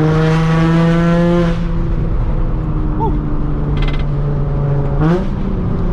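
Nissan Z car's engine pulling under light acceleration while driving, its note climbing slightly for the first second and a half, then easing off to a steady cruise. It steps up in pitch again about five seconds in.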